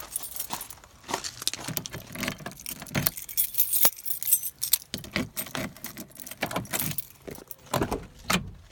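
A bunch of keys jangling and clinking, a rapid irregular string of small metallic jingles and clicks.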